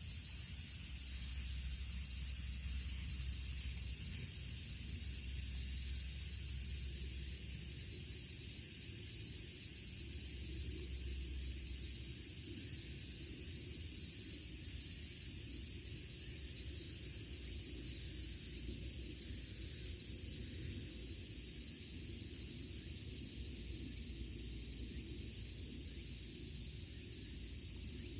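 Steady, high-pitched insect chorus, easing slightly in loudness over the last third.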